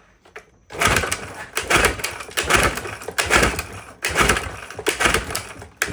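1969 Johnson 9.5 hp outboard being cranked over and over with its pull-start cord, about one pull a second, without starting. The bottom cylinder is getting no spark, though its spark plug is good.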